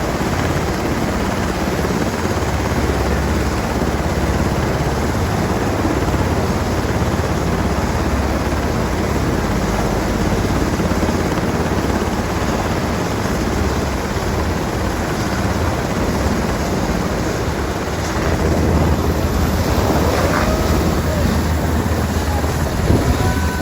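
Helicopter running steadily: a dense, unbroken mix of rotor and engine noise with a strong low rumble.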